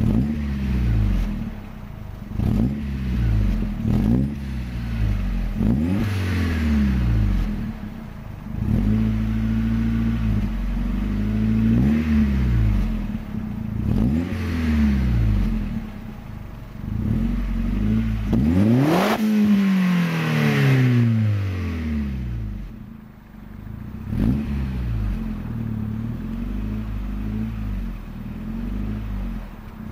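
1999 Audi A4 1.8T quattro's turbocharged four-cylinder engine being driven hard, revving up and dropping back over and over as it runs through the gears.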